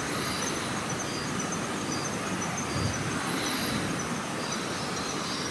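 Rover Mini driving, a steady mix of road and engine noise with no distinct knock standing out.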